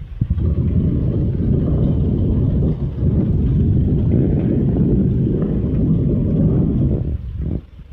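Storm wind buffeting the microphone: a loud, steady low rumble that cuts off suddenly near the end.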